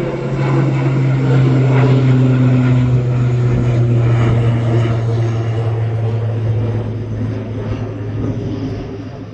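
Aer Lingus turboprop airliner taking off, its propellers giving a loud, steady low hum over engine noise, loudest about two seconds in and then fading as it climbs away.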